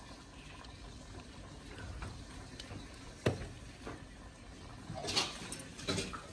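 Faint, steady sizzle of food frying in a wok over a wood fire. A single sharp click comes about three seconds in, and short handling rustles and clatters follow near the end.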